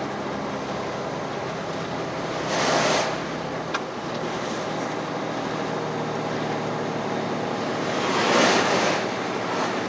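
Heavy truck's diesel engine pulling steadily uphill under load, with two loud whooshing swells, about two and a half seconds in and again about eight seconds in.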